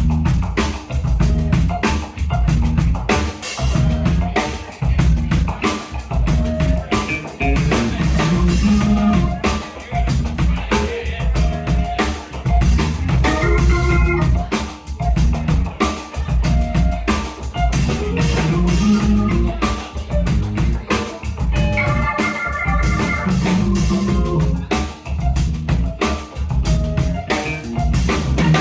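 Live band playing an instrumental groove led by a drum kit and bass, with other instruments adding melodic lines in places.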